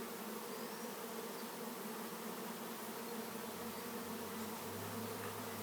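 Swarm of European honeybees flying around, a steady many-winged buzzing hum. A deeper hum joins about three and a half seconds in.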